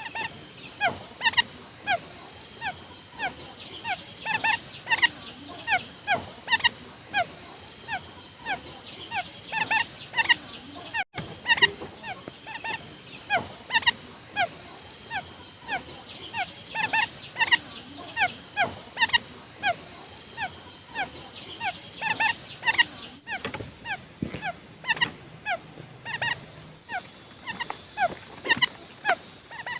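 Quail calling: many short, sharp notes sliding downward in pitch, several a second and overlapping like more than one bird. The calling breaks off briefly twice, about 11 and 23 seconds in.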